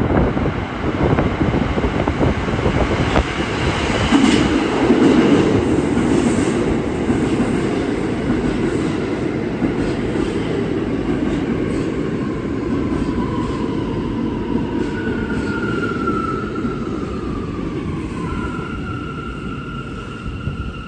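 New York City Subway train in a station: steady rumble of wheels on rail with rapid clicks, loudest about five seconds in, then easing off as a whine slides down in pitch and settles near the end, the sound of the train slowing.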